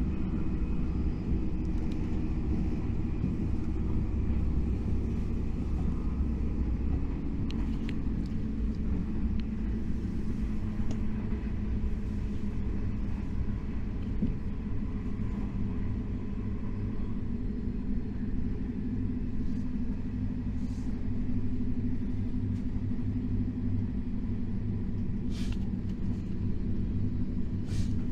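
KTX high-speed train running at speed, heard from inside the carriage as a steady low rumble of wheels and running gear.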